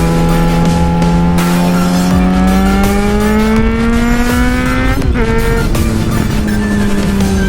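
2009 Yamaha FZ6R with an aftermarket M4 exhaust, accelerating: the engine note climbs steadily, drops sharply at an upshift about five seconds in, then holds fairly steady. Music plays along with it.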